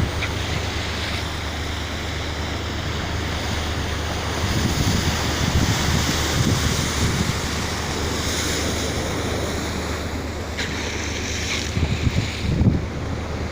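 Wind buffeting the microphone over the rush of sea water, with a steady low hum underneath.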